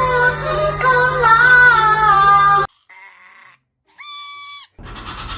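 Parrot singing a wavering melody in a high, childlike voice, cutting off abruptly about two and a half seconds in. After a short, nearly silent gap comes a brief clear whistled tone, then a steady hiss near the end.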